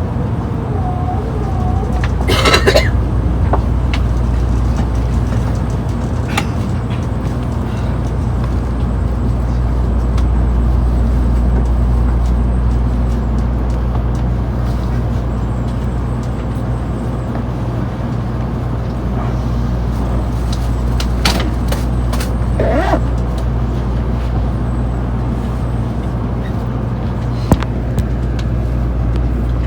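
Steady low rumble of a Shinkansen passenger car's interior, with a few brief knocks and clatters.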